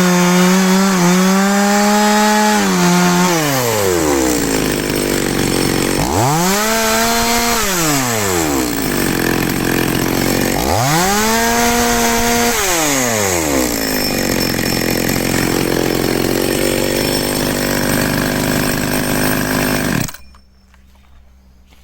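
Zenoah G2500 two-stroke chainsaw engine held at high revs, then dropping to idle and revved up twice more. It idles for several seconds and then cuts off suddenly near the end.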